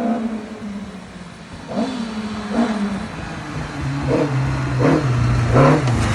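Rally car engines on a forest special stage: one car's engine fades away, then the next car approaches and grows louder. It revs hard, with a short burst of sound at each gear change, about once a second.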